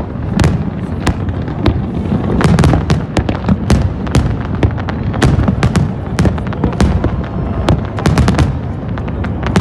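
Fireworks going off: rapid, irregular cracks and bangs, many close together, over a continuous low rumble of booming shells.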